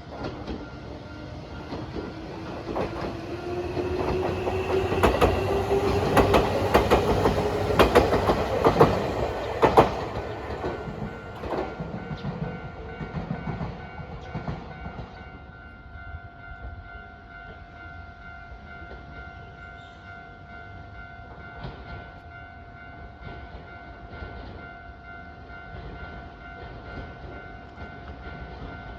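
A Nankai Line electric train passes, its motor whine rising steadily in pitch as it gathers speed and its wheels clattering over rail joints, loudest between about five and ten seconds in. The train then fades away while a level-crossing warning bell's steady ringing carries on.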